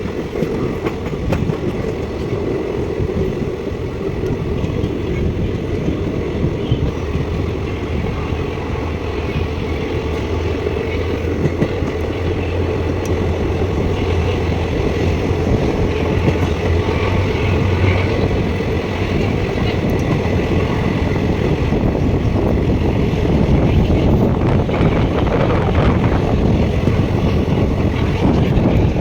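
Passenger train running: a steady noise of wheels on the rails with a low hum underneath, slowly getting louder.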